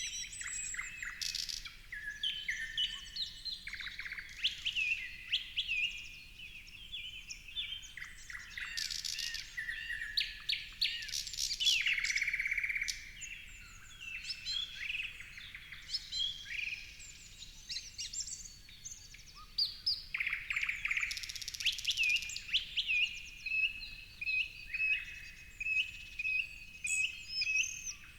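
Several wild birds singing and chirping at once, a dense chorus of overlapping whistles and trills. In the last several seconds one bird repeats a short note in an even run.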